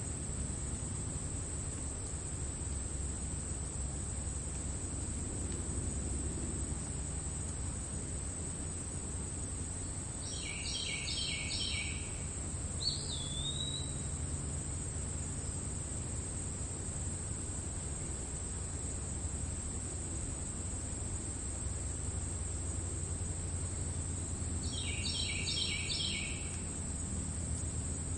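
Crickets trilling steadily in grass over a low outdoor rumble. A bird gives a short phrase of rapidly repeated notes twice, once about a third of the way in and again near the end, with a single swooping whistle just after the first phrase.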